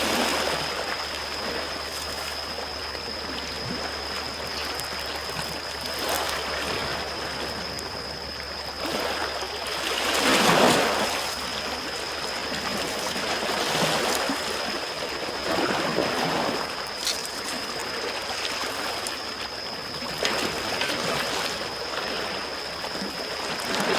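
Small waves washing onto the shore in gentle swells every few seconds, the biggest about ten seconds in, with the occasional sharp crackle of a campfire.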